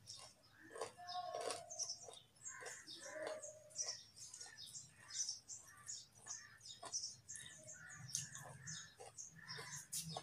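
Raw carrot being chewed with the mouth closed: a run of irregular crunching and crackling.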